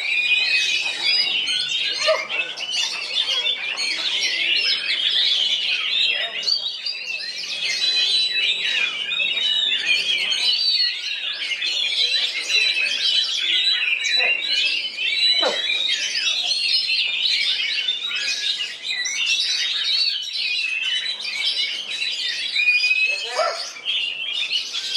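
Oriental magpie-robin singing a dense, unbroken run of varied whistles and chirps.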